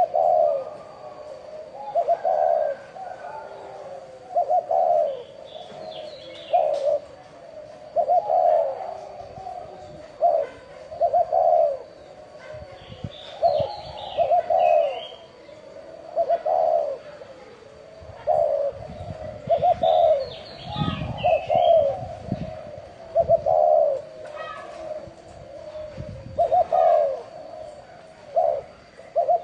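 Spotted dove cooing over and over in the bell-like 'chuông đồng' voice, short low coos in groups of two or three repeating every second or two: the crooning call used to lure wild doves. A few brief high chirps come in now and then.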